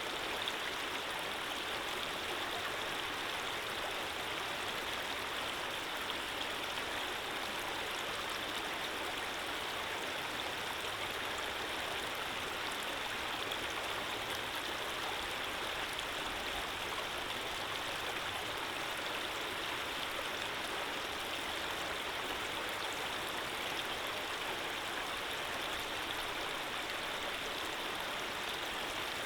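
Running water flowing steadily: a continuous, even rush of a stream with no breaks or changes.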